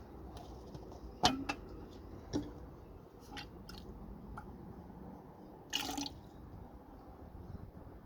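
Water dripping: irregular single drops over a steady low hiss, the loudest about a second in, with a longer splash about six seconds in.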